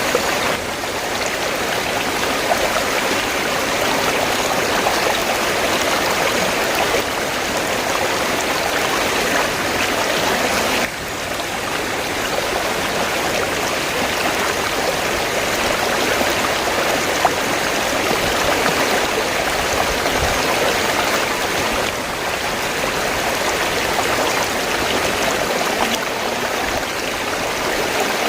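River water flowing steadily, an even rushing with a couple of small steps down in level partway through.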